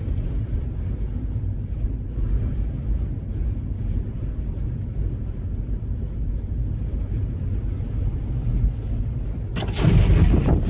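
Strong, gusting wind buffeting a parked vehicle and blowing across the microphone, giving a steady low rumble, with a louder blast about a second before the end.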